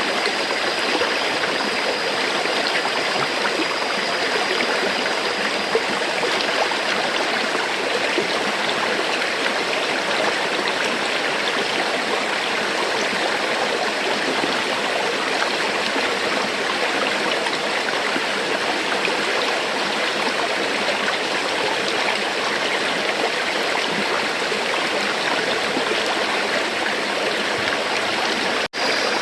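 A river flowing, a steady, even rush of running water. It cuts out for a split second near the end.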